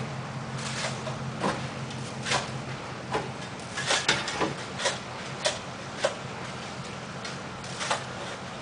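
Steady low hum of an idling vehicle engine, with scattered sharp ticks and clicks at irregular intervals over it.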